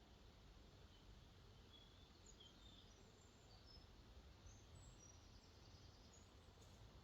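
Faint steady rush of water where a lake flows out into a river, with distant birds giving short high chirps scattered through it.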